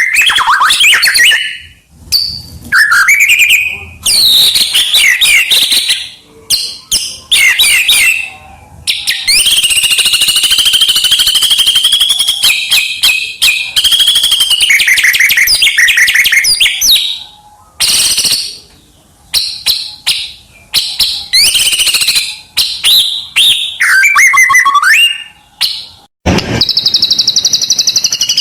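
White-rumped shama (murai batu) singing loud, varied song phrases of whistles, sweeping notes and warbles, with short pauses between them. A brief thump comes near the end, followed by a fast, evenly pulsed trill.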